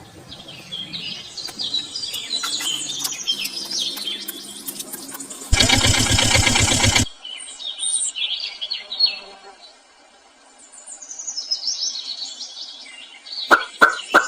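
Small birds chirping. Partway through, a loud buzzing burst lasts about a second and a half, and a few sharp clicks come near the end.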